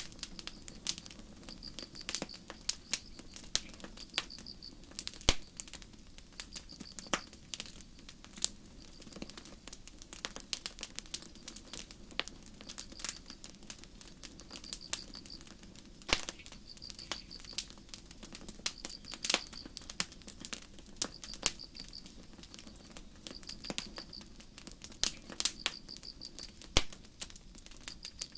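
Campfire crackling with frequent sharp pops and snaps over a low steady murmur of flames, while crickets chirp in short high-pitched pulsed chirps about once a second.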